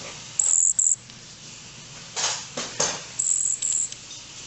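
Baby bird's high-pitched begging peeps, two short pairs about three seconds apart, with a couple of brief rustles between them; the bird is hungry.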